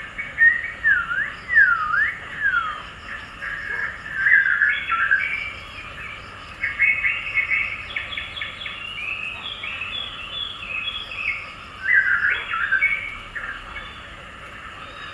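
Birds chirping and singing: a busy run of quick chirps and swooping whistled calls, with a burst of calls about twelve seconds in.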